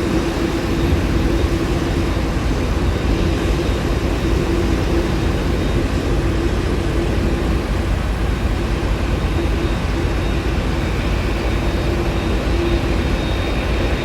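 Aircraft engines running steadily: a constant loud rumble with a steady droning hum and a faint high whine over it.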